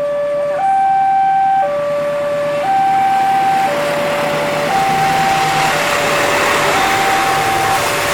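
Railway level-crossing warning alarm sounding a steady two-note high-low tone, each note held about a second. From about three seconds in, the noise of an approaching train on the rails grows louder beneath it.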